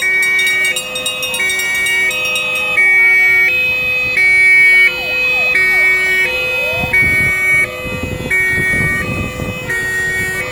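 Several fire engines' two-tone sirens sounding at once. Each alternates between a high and a low note about every three-quarters of a second, overlapping at different pitches, with a few short rising and falling wails beneath them. A low rumble swells about seven seconds in.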